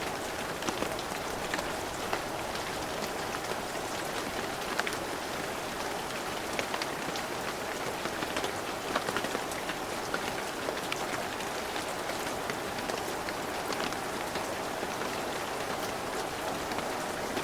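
Heavy rain falling steadily: an even hiss of rainfall with many individual drops ticking and pattering on surfaces.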